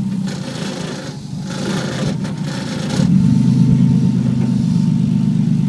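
Twin-turbo Toyota 2JZ straight-six engine running in a 1965 Mustang. It steps up in loudness about three seconds in and then holds a steady drone.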